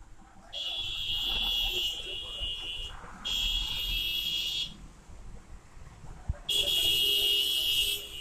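A high-pitched electronic alarm or buzzer sounding in three long blasts, each about a second and a half to two seconds.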